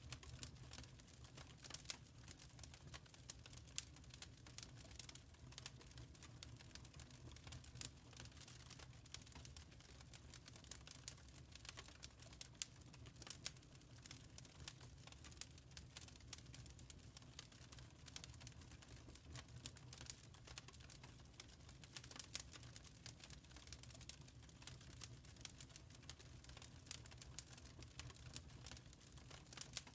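Faint wood fire crackling in a fireplace: a steady scatter of small, irregular pops and snaps over a low, even rumble.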